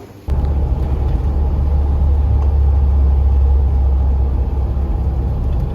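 Loud, steady low rumble of a UAZ Bukhanka van under way, engine and road noise heard from inside the cabin; it begins suddenly just after the start.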